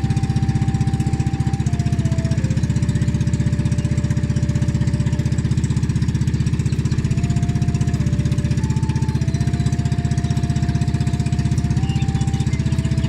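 Boat engine running steadily, with a rapid, even chugging. A thin, slow melody of held notes plays faintly over it.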